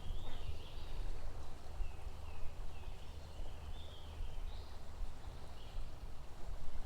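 Small birds chirping in short, high, rising-and-falling notes, repeated every second or so, over a steady low rumble of outdoor noise.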